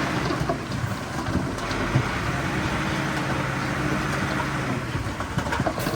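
Heavy diesel construction machine engine running steadily, with a few short knocks through it.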